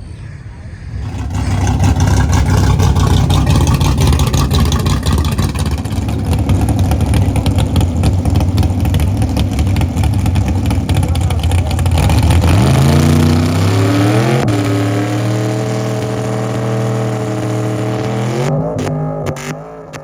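A loud car engine running hard with a rough, pulsing exhaust note. About twelve seconds in, it revs up and is held at steady high revs, with a few small changes in pitch, until it cuts off near the end.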